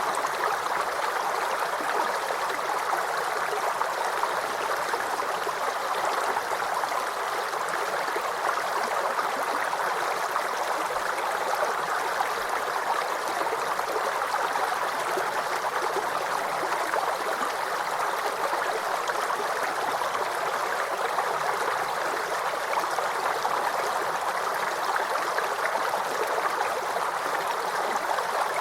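Small stream or brook babbling and gurgling over stones, a steady even rush of water with no breaks.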